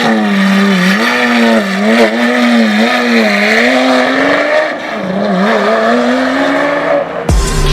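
Lamborghini Aventador SVJ's V12 engine running at moderate revs through an aftermarket exhaust, its pitch wavering up and down with light throttle blips. About seven seconds in it cuts off abruptly to music with a deep beat.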